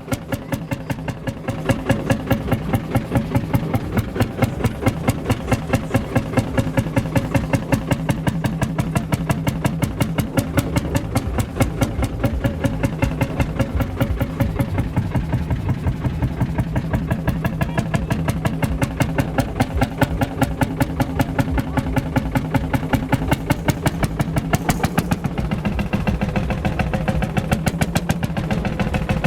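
Ursus C-451 tractor's single-cylinder two-stroke hot-bulb engine running with its slow, even beat of exhaust pulses, a few per second.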